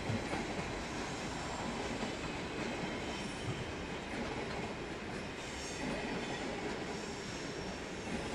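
Stadler FLIRT electric passenger train rolling through the station tracks: a steady rumble of wheels on rail, with a faint high wheel squeal in the second half.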